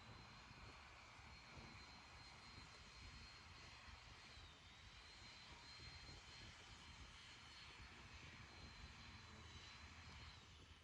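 Faint, steady rushing of a distant passing vehicle, with a thin high whine held over it that wavers once midway; the rushing and whine drop away at the end.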